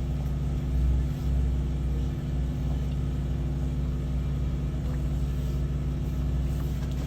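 Sewer water jetter's engine running steadily under load with a low, even drone, swelling briefly about a second in.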